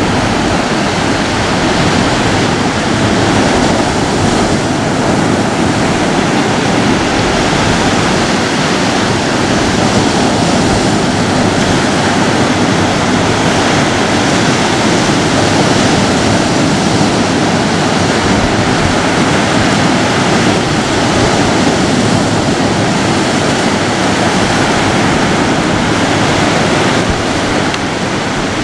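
Ocean surf breaking: a steady, even wash of waves with no distinct swells rising and falling.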